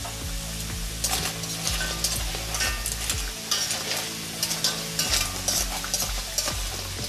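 Fish sausages (keropok lekor) sizzling in hot oil in an aluminium wok. From about a second in, metal tongs and a wire spider strainer scrape and clink against the wok as the sausages are scooped out.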